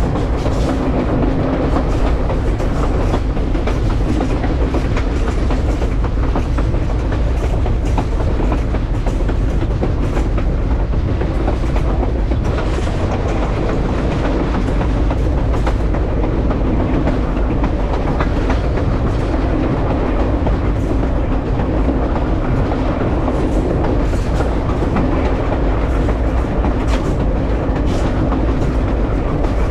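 Passenger railway cars rolling along the track, heard from the rear of the train: a steady rumble of steel wheels on rail with many small clicks and rattles throughout.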